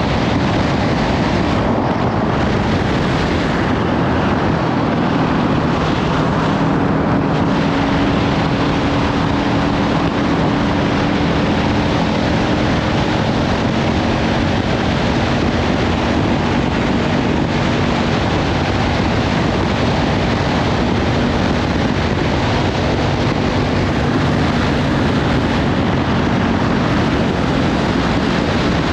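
Heavy wind noise on the microphone over a Kawasaki Ninja 500's parallel-twin engine with a Leovince slip-on exhaust, running at a steady cruise.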